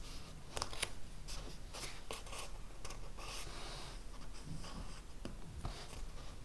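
Handwriting on paper: an irregular run of short, scratchy pen strokes that stop near the end, over a steady low room hum.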